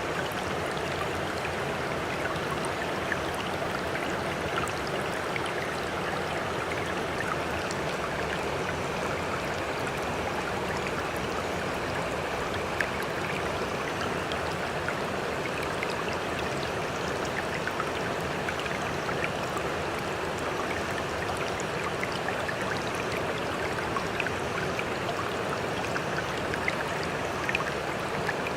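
Sea water trickling and splashing in a steady, even wash, dotted with many small drips and splashes.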